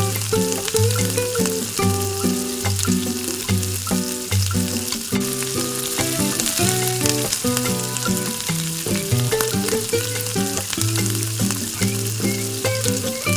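Food frying and sizzling in a small pan, a steady hiss, with background music of held melodic notes over it.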